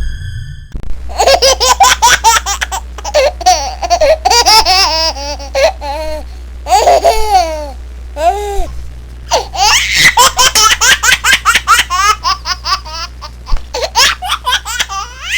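A baby laughing in quick, repeated bursts of giggling with rising and falling pitch, over a steady low hum.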